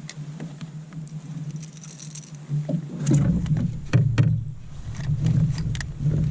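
Knocks and bumps on a plastic kayak over a steady low rumble, growing louder from about three seconds in.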